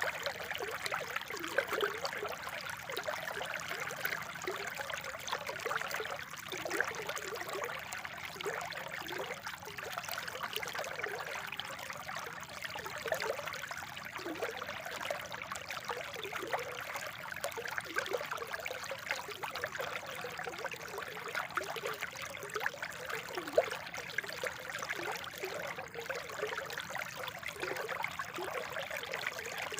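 Spring water flowing and trickling steadily, with many small gurgles and bubbling blips throughout.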